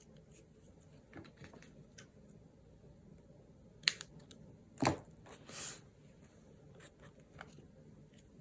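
Close-up paper and stationery handling during journaling: small clicks and rustles, a sharp click about four seconds in, then a louder scrape and a short papery swish a second later.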